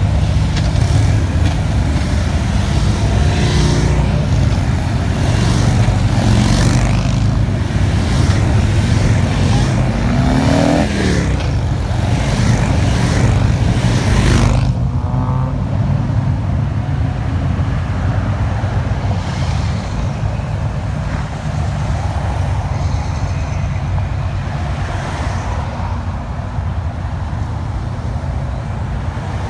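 Road traffic: vehicle engines running steadily and passing by on a busy street. About ten seconds in, a tone rises and then falls. Halfway through the sound turns duller, losing its hiss.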